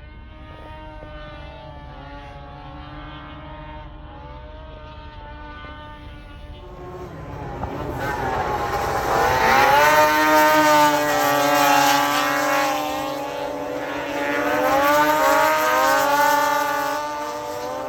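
Snowmobile engines running, steady at first, then louder from about seven seconds in, with pitch rising and falling in two swells as they rev or pass.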